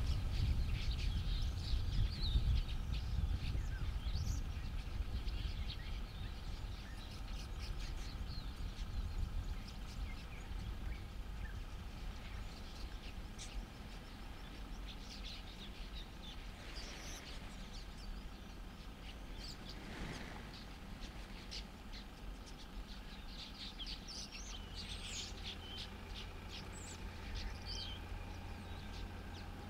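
Wild birds chirping and calling on and off, with short high chirps and quick glides. Under them runs a low rumble, loudest in the first few seconds.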